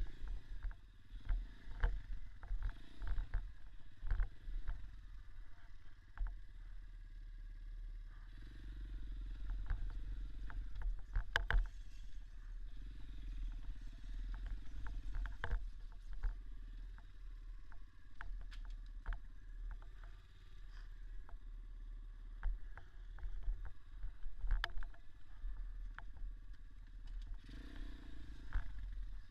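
Small single-cylinder dirt bike engine running at low revs over rough forest ground, heard as a low rumble that swells and eases, with frequent short knocks and rattles throughout.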